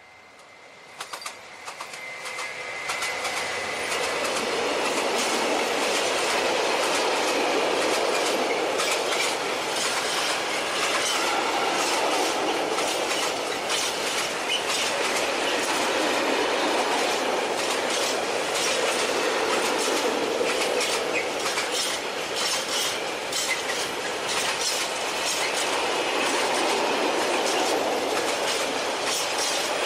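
A long freight train of tank wagons hauled by an electric locomotive passes at close range. The sound grows over the first few seconds as the locomotive comes up, then holds as a steady loud rolling noise with rapid clicks of wheels over the rail joints.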